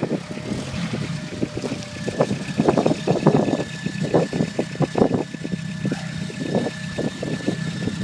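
A vehicle engine running with a steady hum and a thin whine, while a rapid, irregular series of knocks and clanks sounds over it, thickest in the middle of the stretch.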